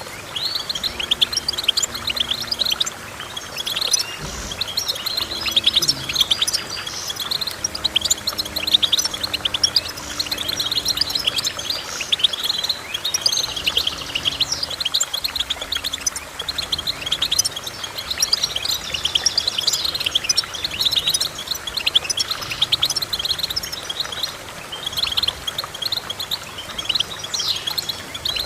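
Finch song: a rapid, unbroken run of high twittering chirps and trills.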